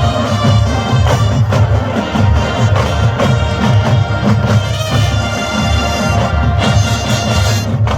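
Several marching bands playing together in a loud pop arrangement: massed brass and woodwinds over a steady pulse of drums, with a brief break in the sound just before the end.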